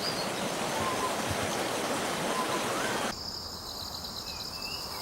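Outdoor nature ambience: a steady hiss like a rushing stream, with a few faint bird chirps. About three seconds in it cuts abruptly to a quieter forest background with a steady, high, pulsing insect trill like crickets.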